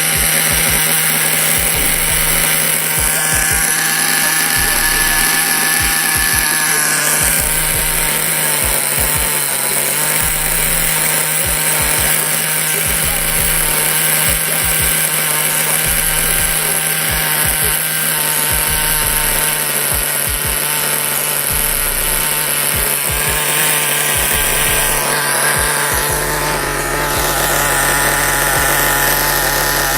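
Small nitro glow engine of a Redcat Tornado S-30 RC car, freshly broken in, running loud and steady, its pitch shifting about seven seconds in and again near the end.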